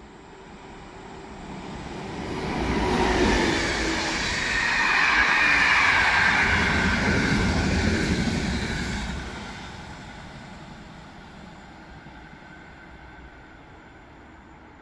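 Locomotive-hauled passenger train passing through a station at speed. The rumble and wheel noise swell as it approaches and are loudest for several seconds while the coaches go by, with a high singing from the wheels on the rails. The noise then fades as the train moves away.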